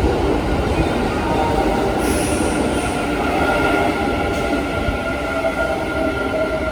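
Kintetsu electric train moving slowly over the station tracks: a steady rumble of wheels and running gear with several steady squealing wheel tones that grow stronger from about three seconds in. A brief high hiss comes about two seconds in.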